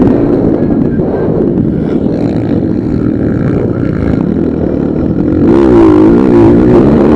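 Motocross motorcycle engine running loud and steady, its pitch wavering up and down with quick revs, more strongly in the last couple of seconds.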